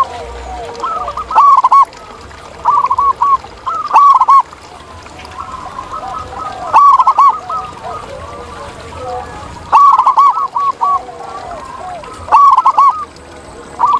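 Zebra doves cooing: short phrases of quick, looping coo notes repeated every few seconds, with fainter calls from other doves overlapping in between.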